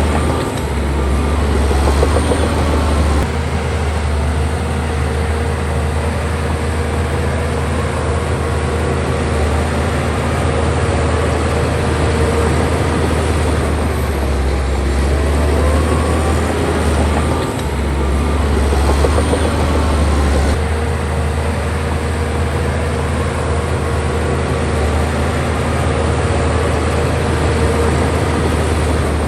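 Bulldozer's diesel engine running steadily with a strong low drone, its note shifting a few seconds in and twice more past the middle as the load changes.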